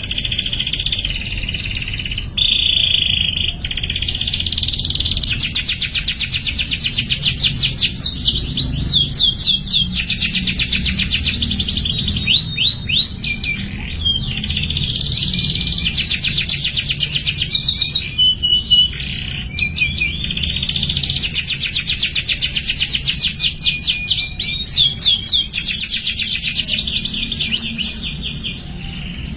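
Domestic canary singing: long, fast trills and rolls of rapidly repeated notes, broken now and then by quick sliding whistles and brief pauses between phrases.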